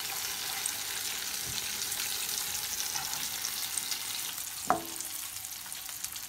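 Whole mushrooms sizzling steadily in oil and butter in a frying pan as a fork turns them over, with one sharp clink of the fork against the pan a little after halfway.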